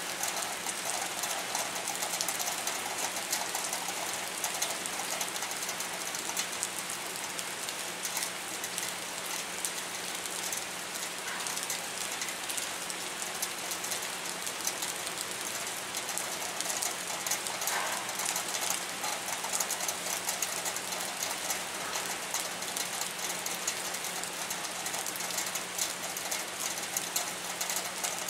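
Steady heavy rain falling on a wet concrete pier and harbour water, with many fine drop impacts and a low steady hum underneath.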